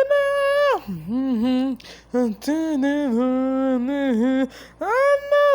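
A singing voice altered by a voice-changing effect, which makes it sound very clean and pitched. Long held notes alternate with quick dips and jumps in pitch.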